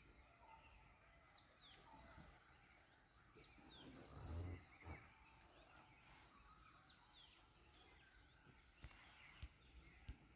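Near silence: quiet forest ambience with faint, short bird chirps now and then, a soft low thump about four seconds in, and a few faint clicks near the end.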